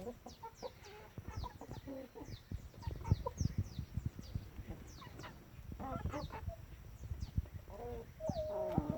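Chickens clucking, with short high falling peeps running through and a louder clucking call near the end. Irregular dull knocks are mixed in and make the loudest moments.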